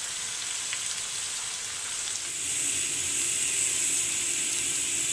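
Prawns sizzling in oil and masala in a frying pan: a steady frying hiss that grows louder about two seconds in, as the masala has cooked down and the prawns fry drier.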